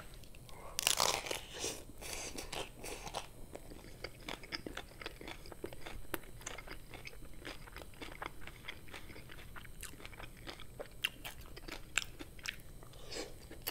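Hard-shell taco bitten into, with the loudest crunches about a second in, then chewed steadily: many small crunches and clicks as the crisp shell breaks up in the mouth.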